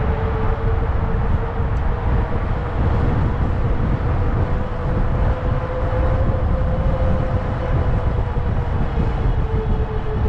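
Wind buffeting the microphone while riding a fat-tire electric bike, with a steady whine from the bike that drifts slightly in pitch as the speed changes.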